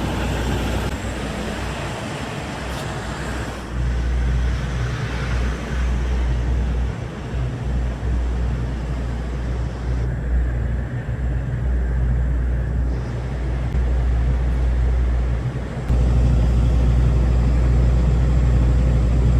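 Semi-truck diesel engine running at low idle, a steady low rumble that gets louder about four seconds in and again near the end.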